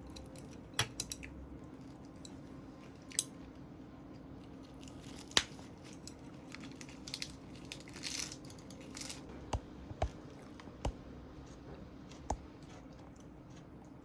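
A dozen or so light clicks and taps, scattered irregularly over a steady low hum, with a short rustle about eight seconds in.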